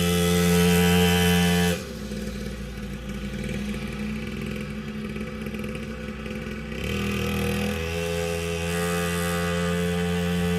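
Small two-stroke engine of a mini dirt bike running steadily. About two seconds in the sound drops abruptly to a quieter, rougher idle, and it comes back louder near the end.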